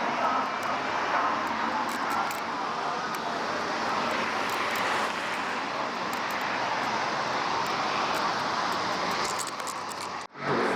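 Steady outdoor background noise, an even hiss-like wash with no clear engine note, that cuts out for a moment near the end.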